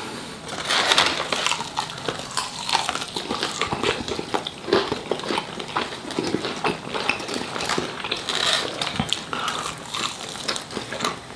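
Close-up chewing and biting of fried chicken wings: many small, irregular crunches and wet mouth clicks.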